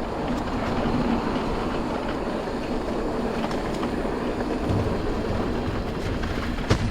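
Orbea Rise electric mountain bike rolling over a forest trail: a steady rumble of tyres and wind, with scattered rattles and clicks from the bike and one sharper knock near the end.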